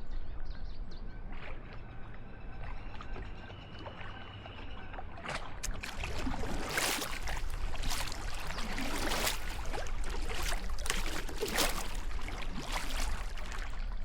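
Kayak paddle strokes splashing in the water, starting about five seconds in and coming roughly once a second.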